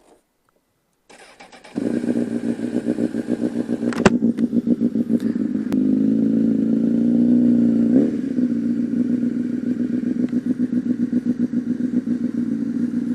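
Honda CBR1000RR Fireblade's inline-four engine cranked on the electric starter and catching about two seconds in, then idling with a steady pulse. The revs rise a little for a couple of seconds near the middle and drop back to idle at about eight seconds; a sharp click sounds about four seconds in.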